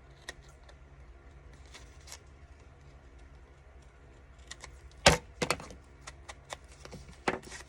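Scattered clicks and taps of a paper craft kit and papers being handled on a table, with a few sharper knocks about five seconds in and again near the end.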